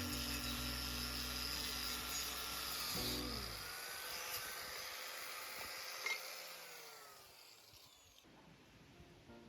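An electric power tool's motor running with a steady whine, then switched off and spinning down. Its pitch falls and it fades over several seconds until it is faint near the end.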